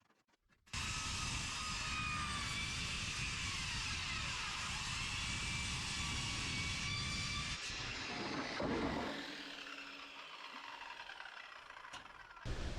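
Power saw cutting through a sheet-metal roofing panel along a chalk line: a loud, steady cutting noise with a high whine starts suddenly about a second in, then drops away after about eight seconds to quieter rough scraping.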